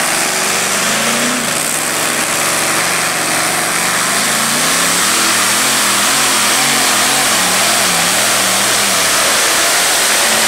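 Multi-engine modified pulling tractor running at full power down the track under load, with a loud, steady engine note. About halfway through, the engine pitch starts wavering up and down over and over.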